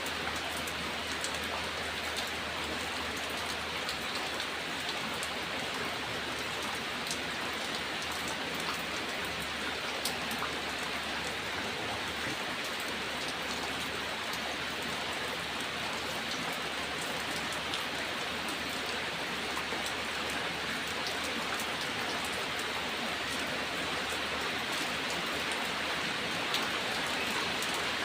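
Steady, even rain, with scattered single drops ticking sharply close by.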